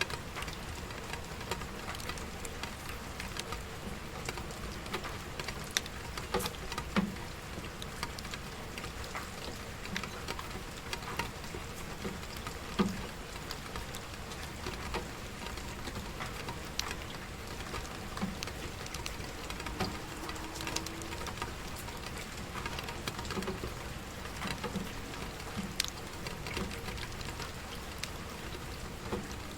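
Steady rain falling, with a wood fire crackling and popping irregularly over it; the sharpest pops come about six to seven seconds in and again near thirteen seconds.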